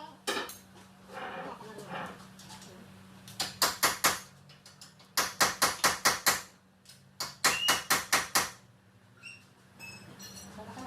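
Rapid knocks in three quick runs of about five to seven blows each, roughly six a second, over a steady low hum.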